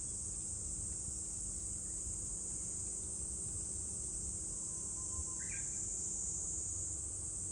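A summer chorus of cicadas making a steady, unbroken high-pitched drone, with one short faint chirp a little past five seconds in, over a low rumble.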